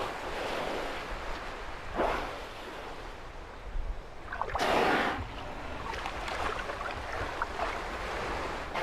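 Water washing in an open lead among the sea ice, with two short breathy gushes, the louder about halfway through, typical of orcas surfacing and blowing.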